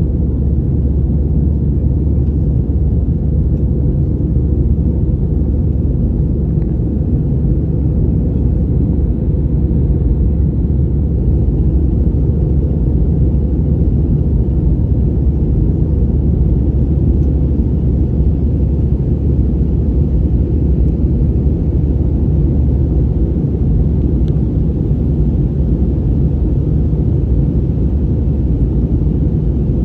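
Steady low rumble of an Airbus A320-200's engines and airflow heard inside the cabin in flight, unchanging throughout.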